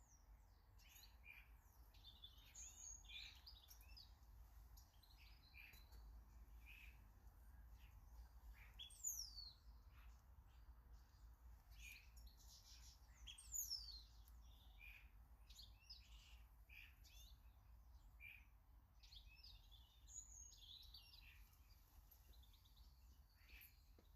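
Small garden birds chirping and calling, faint and busy throughout, with two louder high whistles that sweep steeply downward, one about a third of the way in and another just past halfway.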